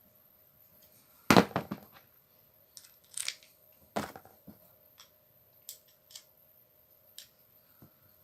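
Sharp clicks and clacks of hard parts being handled and set down, the loudest a quick cluster about a second in, then two more clacks and a few light ticks.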